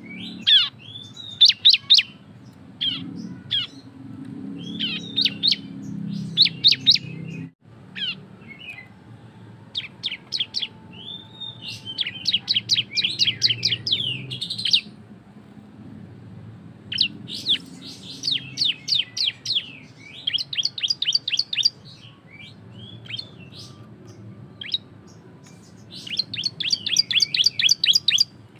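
Bar-winged prinia (ciblek) singing loud and continuously, its rapid-fire 'ngebren' song: short phrases of sharp high chirps alternating with fast runs of about four chips a second. A faint low hum lies underneath.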